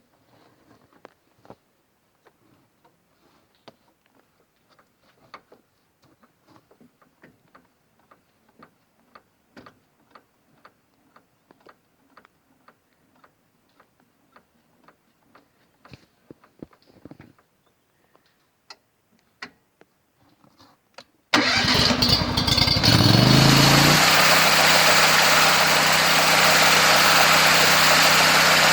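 Faint scattered clicks and knocks, then about 21 seconds in an engine starts. Its pitch climbs for a couple of seconds, then it settles into a loud, steady run.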